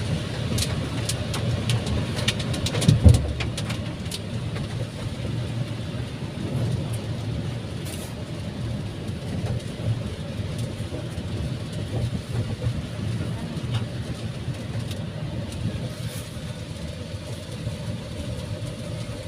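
Car interior noise while riding: a steady low rumble of engine and road, with a few sharp clicks in the first few seconds and a thump about three seconds in.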